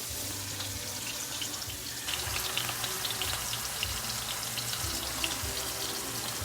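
Chicken sizzling in hot oil in a cast iron skillet. The sizzle grows louder about two seconds in, with a steady hiss and dense crackling spatter.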